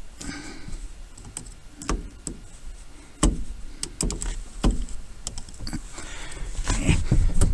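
Scattered clicks and knocks of a Torx driver and plastic steering-column parts being handled while the multifunction switch is unscrewed, with a scraping rustle near the end.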